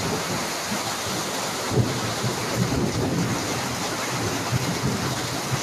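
Hurricane rain and wind: a steady hiss of heavy rain with irregular gusts buffeting the microphone.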